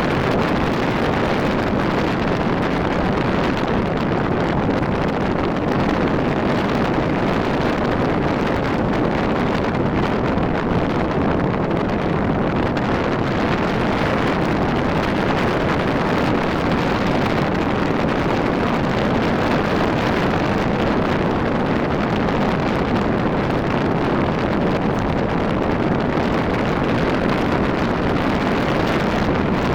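Steady wind rush on the microphone of a Rusi RFI 175 motorcycle moving at a constant speed, with engine and road noise blended underneath.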